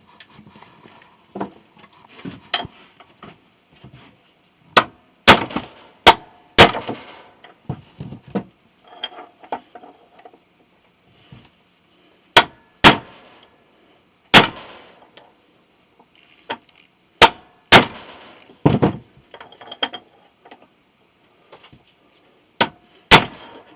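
Sharp metallic taps with a brief ring, about a dozen loud strikes in irregular clusters with fainter knocks and scraping between them. A cast brass fitting is being tapped onto a kukri knife's tang as a tight fit, struck carefully so the brass does not crack.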